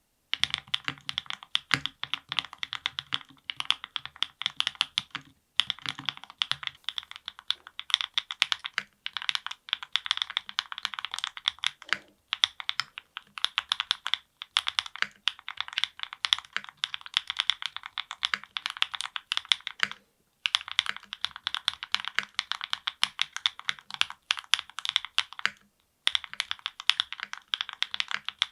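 Continuous fast typing on a NEO70 aluminium custom mechanical keyboard with lubed Gateron Milkshake linear switches, a PC plate, full foam and GMK keycaps. The keys click densely in runs broken by brief pauses. About seven seconds in, the build changes from O-ring mount to gasket mount, and the deeper thock under the clicks grows thinner.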